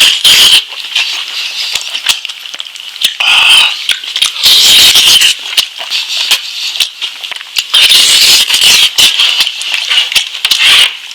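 Close-miked eating of lamb meat: chewing and mouth sounds full of wet clicks and crackles, coming in loud bursts about every two to three seconds.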